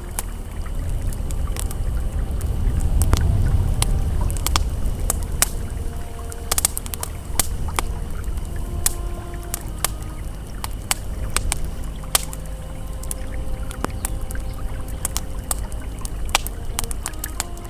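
Campfire crackling with frequent sharp pops over the low, steady rush of a flowing river, which swells about three seconds in. Soft held ambient tones sound faintly underneath, shifting pitch a few times.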